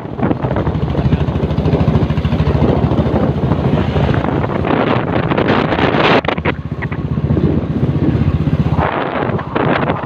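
Motorcycle engine running steadily on the move, with heavy wind noise buffeting the microphone; the engine note drops briefly about nine seconds in.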